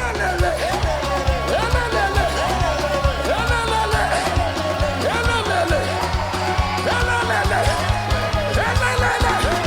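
Live band playing an upbeat African praise song, with a driving drum beat and bass. Many voices sing and shout over it.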